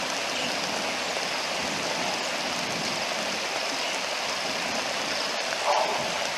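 Steady rain falling on the river's surface, an even hiss of drops on water. A brief louder sound stands out near the end.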